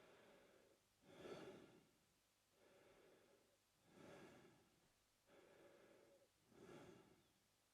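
A man breathing slowly and steadily through his mouth: about three full breaths, each a softer, longer breath followed by a louder, shorter one.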